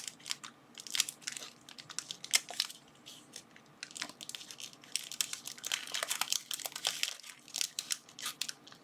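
Plastic packaging crinkling and crackling in irregular bursts as it is handled and pulled apart.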